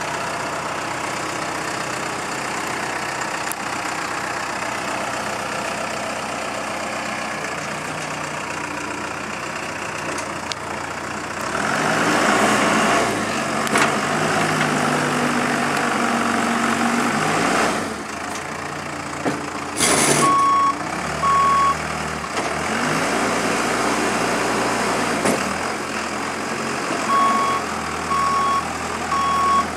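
Komatsu WB142 backhoe loader's diesel engine running, rising in load and revving for several seconds about a third of the way in as the machine is worked, then settling back. A short sharp burst of noise about two-thirds through, and the reversing alarm beeping twice just after it and again in a steady series near the end.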